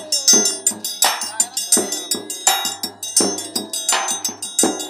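Forró music played live, without singing: a steady percussion beat with strong strokes about every three-quarters of a second, over bass notes and a high ringing.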